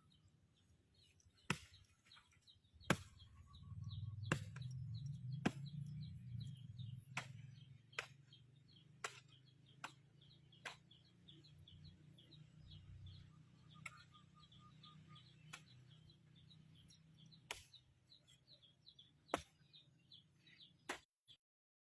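Small birds chirping, quick short chirps repeating throughout, with sharp knocks every second or two and a low hum that swells about three seconds in and fades near the end.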